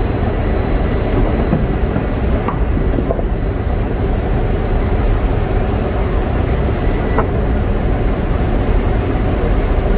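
Loud, steady rumble of running generator engines, without a break.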